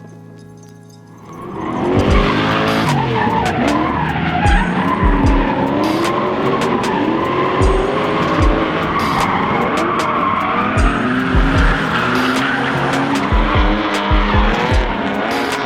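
Engine revving up and down hard with tyres screeching as a vehicle drifts, starting about a second and a half in after a brief lull.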